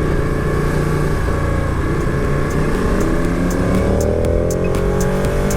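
Motorcycle engine running at speed under wind noise, its pitch climbing steadily from about three seconds in as the bike accelerates.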